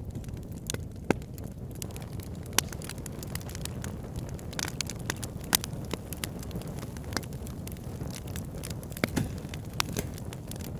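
Wood fire burning in a fireplace, with a steady low rumble under irregular sharp crackles and pops, a few of them louder than the rest.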